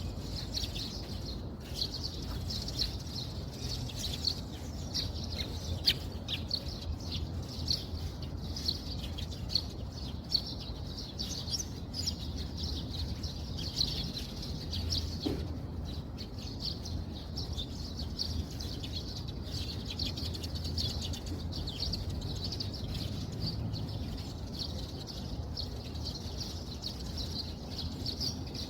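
Steady rain noise with continuous high-pitched chirping over it, densely flickering throughout.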